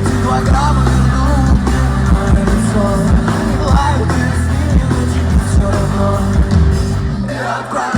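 A rock band playing live, with singing over guitars, bass and drums. Near the end the low end drops out for a moment before the full band comes back in.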